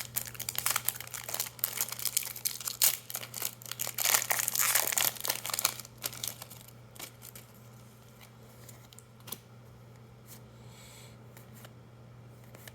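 Foil wrapper of a Magic: The Gathering set booster pack being crinkled and torn open, dense crackling for the first six seconds or so. After that come only a few light clicks and rustles of cards being handled.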